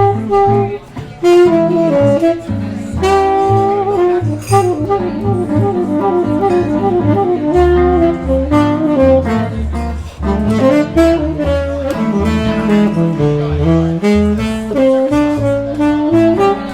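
Jazz saxophone solo, playing quick runs of short notes and sustained phrases over a bass line and band accompaniment.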